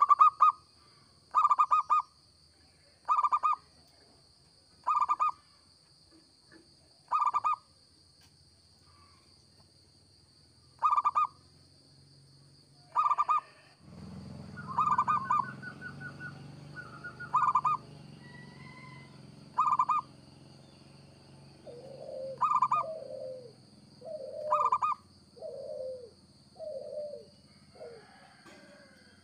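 Zebra dove (perkutut) cooing: short rippling coo phrases repeated about every two seconds, with a few longer pauses. About halfway a low steady hum comes in, and near the end a run of lower-pitched coos follows.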